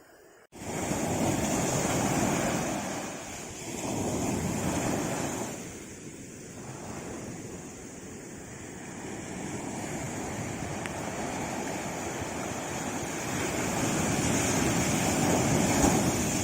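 Sea waves washing in and breaking, starting abruptly about half a second in. The rush swells and ebbs, with two strong surges in the first six seconds, a lower wash in the middle, and a slow build to a peak near the end.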